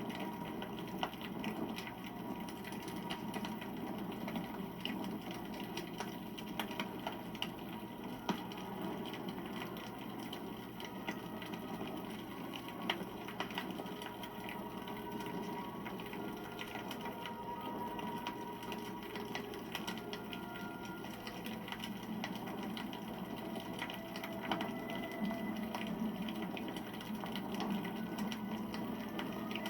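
Wood campfire burning: a steady hiss of flames with many small, irregular crackles and pops.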